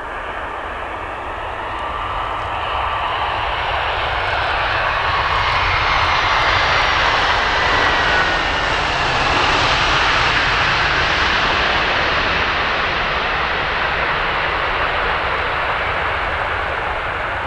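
A fixed-wing aircraft passing close by with its engines running, building to a peak about halfway through and then easing off, with a whine that falls in pitch as it goes past.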